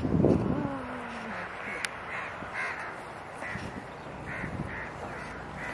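A bird calling repeatedly, a run of short calls two or three a second, after a brief loud low rumble at the start.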